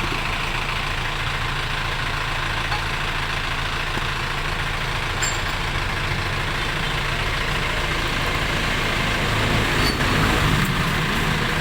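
A vehicle engine running steadily, a low even hum that grows a little louder near the end.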